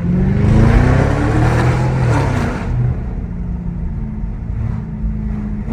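Straight-piped Audi S7 exhaust: the engine revs up over about two seconds, drops back, and settles into a steady idle.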